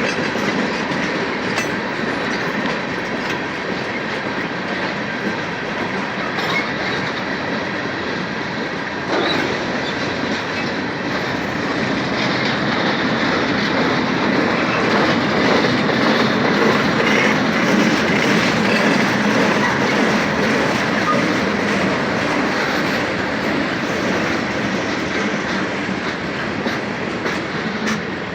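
BNSF train rolling steadily along the track, its wheels running on the rails, a little louder from about nine seconds in.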